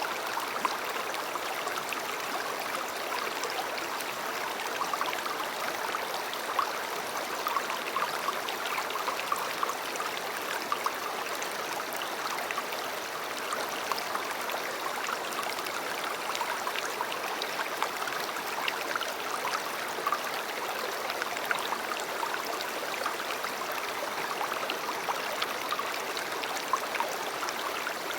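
River water flowing: a steady rush with many small splashes and trickles.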